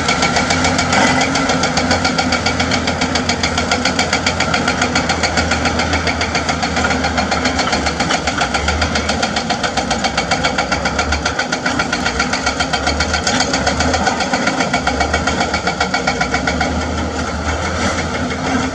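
Excavator-mounted hydraulic breaker hammering limestone in a fast, even run of blows, about ten a second, over the excavator's running engine.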